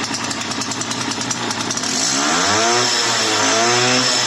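Small quad engine running after being spun over with an electric drill, a rapid even pulsing at first, then revved up and down twice from about halfway through.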